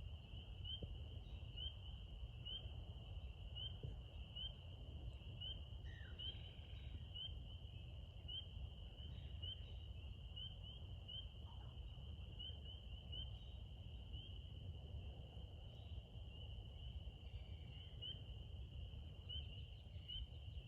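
Insects trilling steadily in a high, thin chorus, with regular chirps about twice a second, over a low background rumble. A few brief, falling bird calls come and go.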